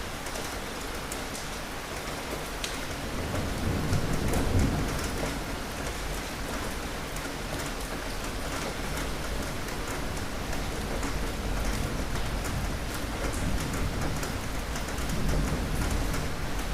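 Steady rain falling, with a low rumble of thunder swelling about four seconds in and a weaker rumble near the end.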